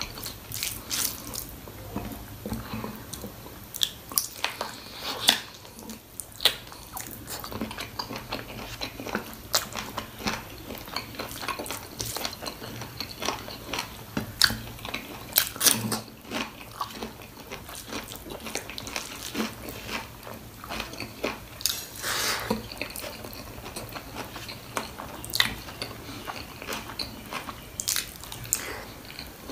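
A person chewing and biting on goat trotters (mutton paya), making many irregular sharp mouth clicks and short crunches.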